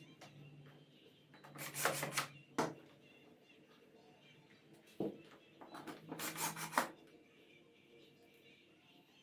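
Two bursts of scraping or rubbing, each about a second long, with a sharp click just before the second.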